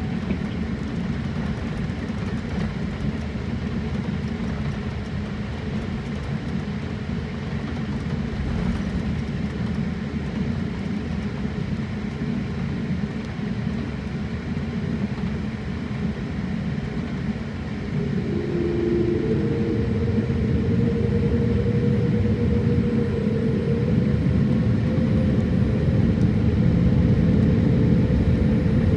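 Airliner cabin noise: a steady low rumble, then about eighteen seconds in the jet engines spool up, a rising whine joining as the rumble grows louder, as for the takeoff roll.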